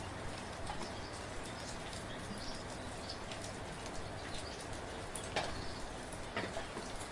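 Steady soft rain: an even hiss with scattered drops tapping close by, and a few louder single drops in the second half.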